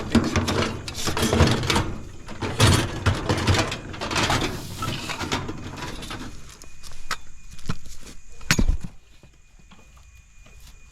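Scrap metal clanking and rattling as pieces are handled and loaded, with a single sharp bang about eight and a half seconds in. Quieter near the end.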